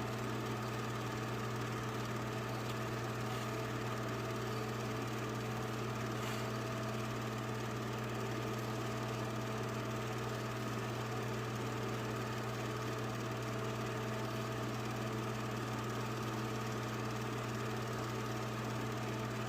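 Steady, unchanging low machine hum with a hiss over it, typical of a motor or electrical hum on an old film transfer.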